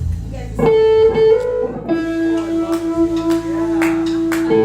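Guitar playing a slow melody of single held notes: a higher note that slides up slightly, then a lower note held for a couple of seconds, then the higher note again, with light pick clicks.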